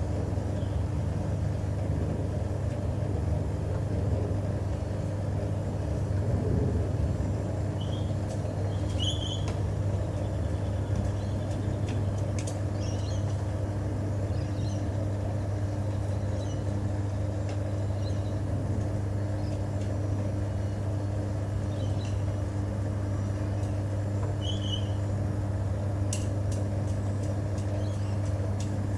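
LG TurboDrum top-loading washing machine running mid-cycle on a full load of bedding, with a steady low hum. A few faint, short high chirps come and go over it.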